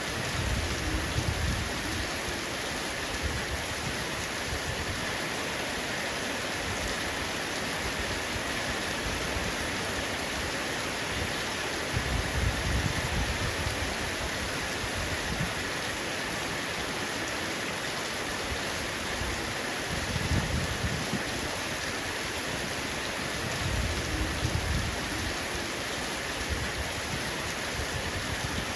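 Heavy rain falling steadily on a roof, an even hiss, with a brief low rumble four times.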